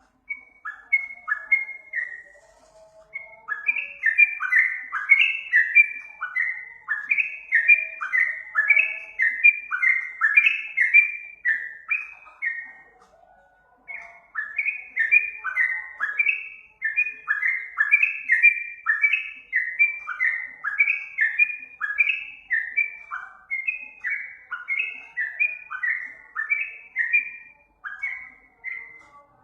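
Yellow-vented bulbul (trucuk) song: long runs of quick, short falling chirps around the same pitch, with a brief break about halfway through.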